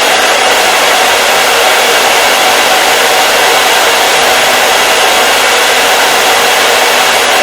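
Hair dryer running steadily on one setting: an even, unbroken rush of blown air with a faint steady motor hum in it.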